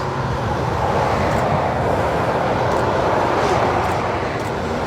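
Steady roar of motorway traffic, heavy lorries passing below at speed, slightly louder in the middle.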